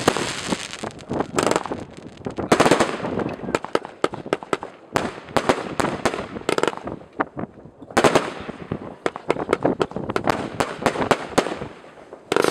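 Aerial fireworks bursting: rapid bangs and crackling, with dense clusters near the start, about two and a half seconds in and about eight seconds in.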